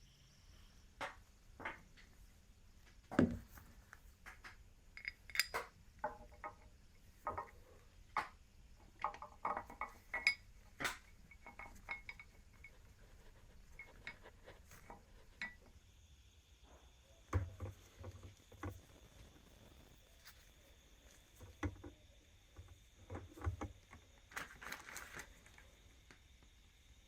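Metal hand tools and parts being handled: irregular sharp clinks and knocks with a few duller thumps.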